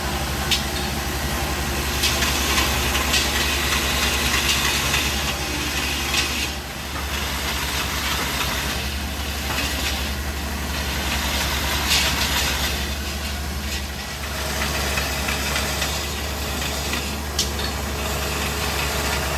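Steady low machine hum under a hiss that swells and fades, with a few sharp clicks.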